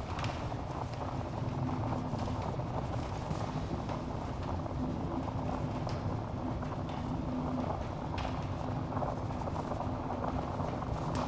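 Wood fire burning in a fireplace: a steady low rush of flame with the logs crackling, and a few sharper pops a couple of seconds apart.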